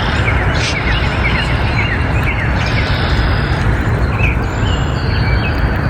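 Small birds chirping, a quick series of short falling notes in the first couple of seconds and scattered higher calls later, over a loud steady background noise.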